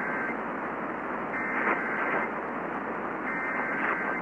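Emergency Alert System SAME header: bursts of digital data tones, each about a second long and about a second apart, heard over radio hiss. This data header opens the broadcast of a flash flood warning.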